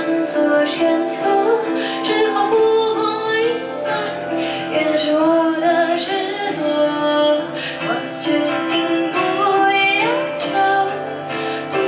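A woman singing a melody over guitar accompaniment.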